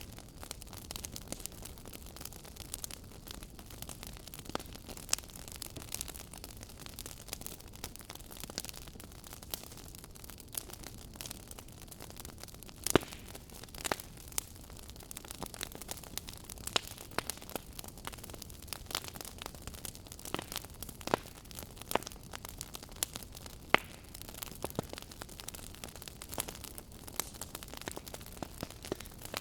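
Firewood burning: irregular crackles and pops over a steady hiss, with a few sharper, louder pops scattered through.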